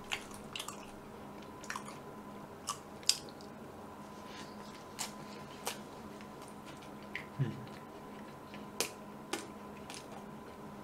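Close-miked mouth sounds of someone chewing a mouthful of bread: scattered soft wet clicks and smacks, with a short low sound about seven seconds in.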